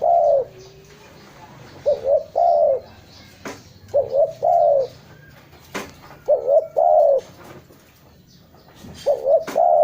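Spotted dove (tekukur) cooing its repeated three-part call, two quick notes then a longer arched note, about five phrases at intervals of two to two and a half seconds.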